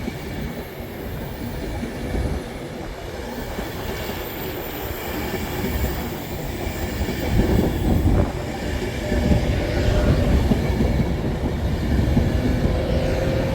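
Class 390 Pendolino electric multiple unit running on the rails at the platform, a heavy rumble that grows louder, with a steady squealing tone coming in near the end.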